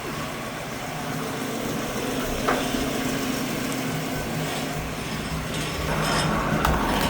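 Ford Falcon engine idling steadily, with one sharp knock about two and a half seconds in.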